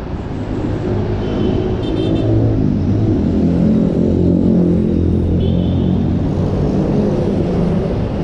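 Motor vehicle engine running close by in road traffic, a low drone that shifts in pitch, over road noise. Two brief, faint high-pitched squeals, about a second in and again about five seconds in.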